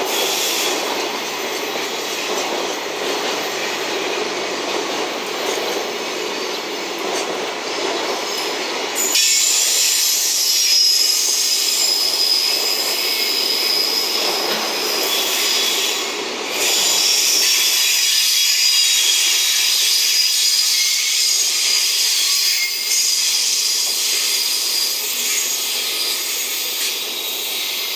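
Container freight wagons rolling past on the rails, wheels rumbling and clattering. About nine seconds in the low rumble gives way to a high, steady wheel squeal that lasts as the last wagons pass and the train draws away.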